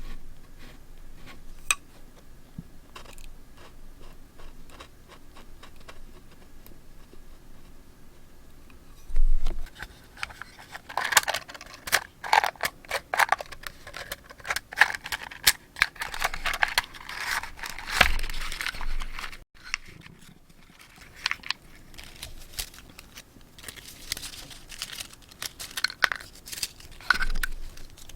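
Paper being handled while decorating a journal: a few light taps and clicks for the first several seconds, then a thump and a dense run of crinkling and rustling, a short lull, and more crinkling near the end.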